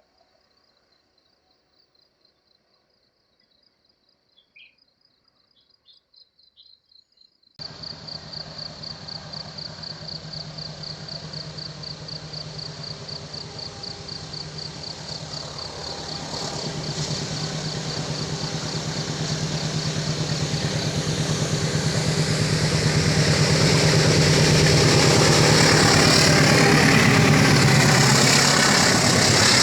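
Insects chirping fast against near silence, then abruptly the engine of a heavy vehicle running, steadily growing louder over the second half as it approaches.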